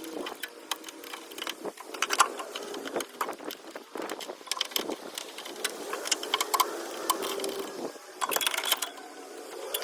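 Irregular sharp metallic clicks and clinks of hand tools being worked on the tractor.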